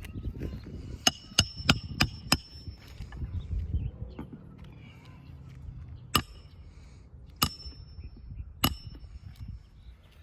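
Hammer driving roofing nails into an old asphalt shingle, with a metallic ring on each strike: a quick run of five blows about a third of a second apart, then three single blows about a second apart.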